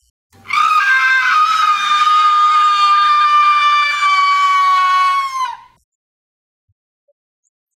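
A person's voice holding one long, high-pitched "haaa" scream for about five seconds, steady in pitch apart from a brief wobble near the start, then dropping slightly and cutting off.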